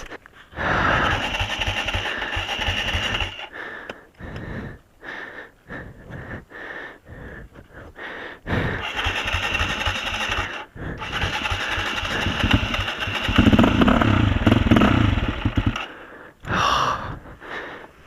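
A motorcycle engine running in several stretches of a few seconds each, with quieter gaps between; the loudest stretch comes late.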